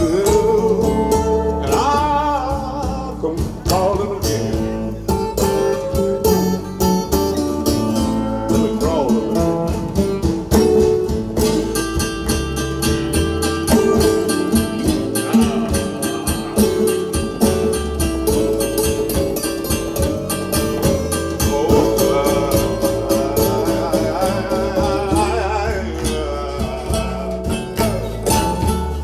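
A recorded song with busy plucked acoustic guitar and some singing, played back over high-end hi-fi loudspeakers.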